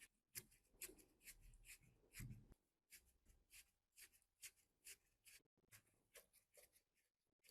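Faint, quick hand scraping or rubbing strokes, about two a second, of the kind made while cleaning rust off a part by hand.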